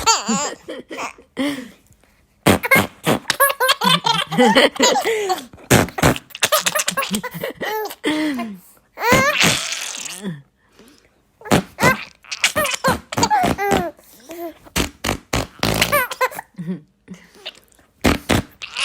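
Two-year-old toddler laughing in several long bouts of quick, pulsed giggles, with short breaks between them.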